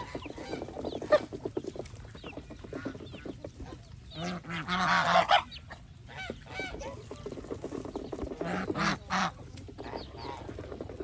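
A flock of Chinese geese honking and chattering with many short overlapping calls, one loud drawn-out honk about halfway through and two sharp honks close together near the end.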